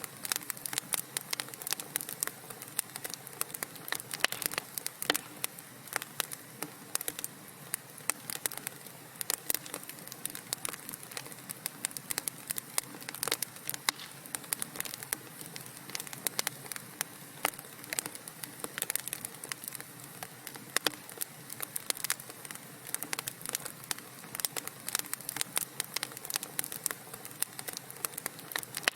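Wood fire crackling in a fireplace: a dense, continuous run of sharp pops and snaps over a soft steady hiss.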